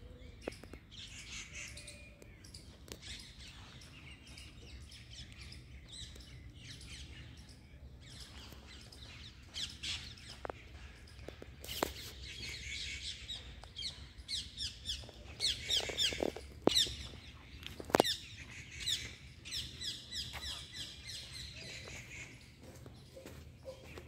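Many small birds chirping and twittering in quick short calls, thickest through the middle and later part, over a low steady background rumble. A few sharp clicks stand out, the loudest two close together late on.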